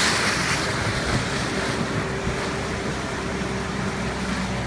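Motorboat running steadily, with a low engine hum under a continuous rush of wind and water.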